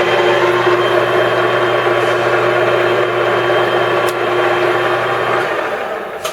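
ENCO 13 x 40 inch bench lathe running under power with a steady gear-train whine, then switched off and spinning down, the whine fading away near the end. This is a test run through its speeds, which all operate correctly.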